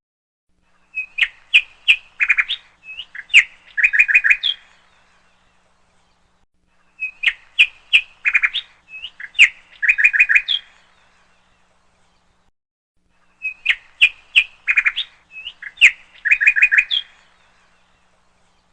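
Recorded birdsong played as a loop: the same high chirping and trilling phrase, about three and a half seconds long, repeats three times, roughly every six seconds, with silence between.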